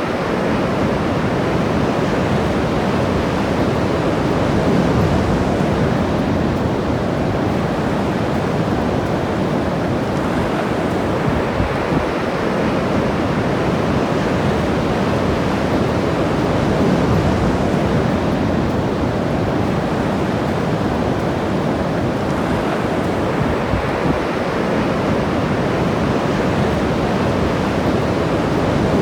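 Ocean waves breaking and washing up the shore in a steady surf rush that swells and eases slowly, with some wind buffeting the microphone.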